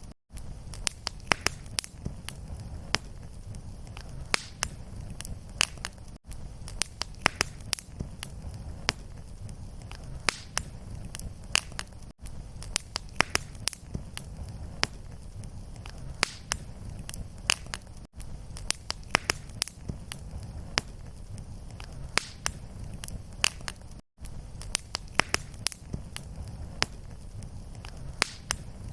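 Fireplace fire crackling, with many sharp irregular pops and snaps over a steady low rumble. The sound drops out for an instant about every six seconds, where the short audio loop restarts.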